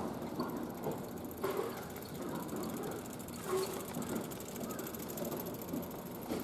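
An electric train running past on the tracks: a steady rumble of wheels on rail with a few uneven knocks, the loudest right at the start.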